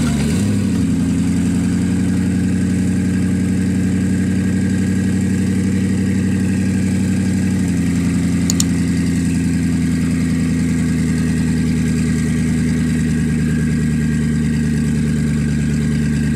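Koenigsegg Regera's twin-turbocharged V8 idling steadily; about eight seconds in the idle settles to a slightly lower pitch.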